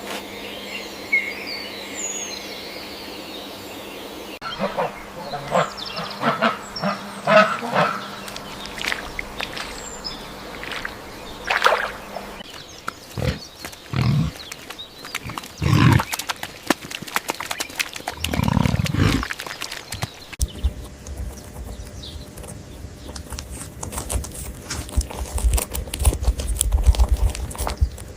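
Farm animal sounds: a string of short, low calls and grunts, loudest in the middle stretch, among scattered clicks and rustles.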